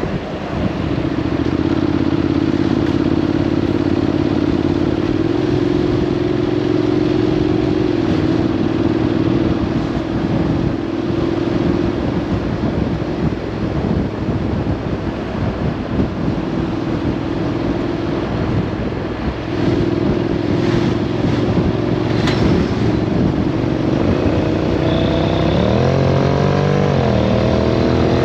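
Road vehicle engine running at a steady cruise, with wind noise across the microphone. Near the end the engine note climbs as it accelerates.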